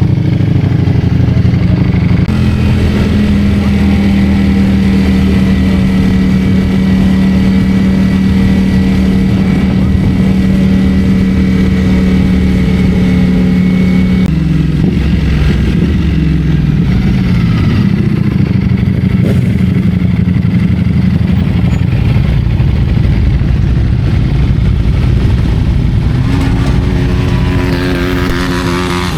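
Ducati Streetfighter V4 S engine running at steady revs while riding, its note dropping for a few seconds about halfway through as the bike slows, then holding lower, and rising again near the end.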